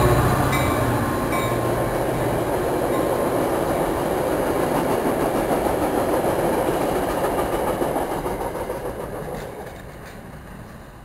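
Metra commuter train passing: a steady rumble of wheels on rail, which fades away between about eight and ten seconds in.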